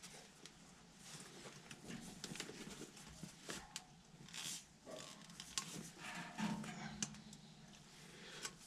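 Scattered light clicks, knocks and scrapes of hands handling metal parts and tools, with a short low hum about six seconds in.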